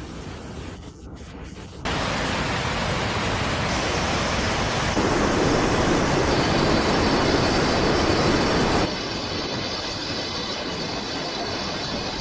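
Steady rushing noise in edited stretches: it cuts abruptly to a louder level about two seconds in, grows louder and deeper about five seconds in, and drops back a little near nine seconds.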